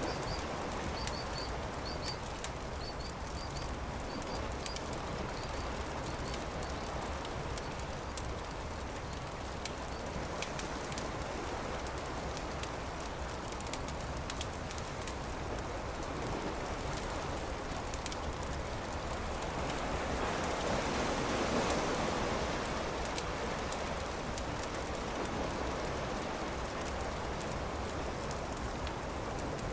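Campfire crackling over a steady wash of surf. A wave swells and fades about twenty seconds in, and a bird chirps a few times near the start.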